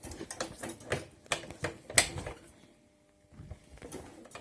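A quick, irregular run of sharp clicks and knocks for about two seconds, then a pause and a few softer clicks near the end.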